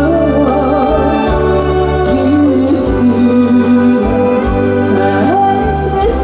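Live trot singing: a woman's voice holding and bending notes with vibrato over an amplified backing track with bass and a steady drum beat.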